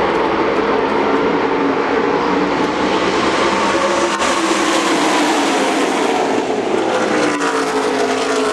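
Race trucks' V8 engines running in a pack at the track, with several engine notes sliding slowly down in pitch near the end as trucks go by.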